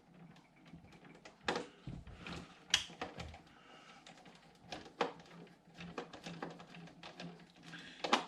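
Irregular light clicks and taps of small plastic parts being handled and worked loose on a 1:14 scale RC semi truck chassis, with a few louder knocks.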